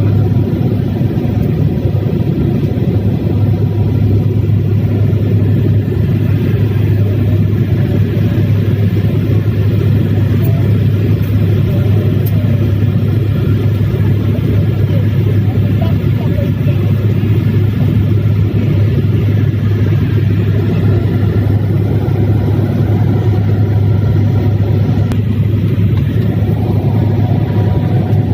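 Steady, loud low rumble of a running vehicle, unchanging throughout.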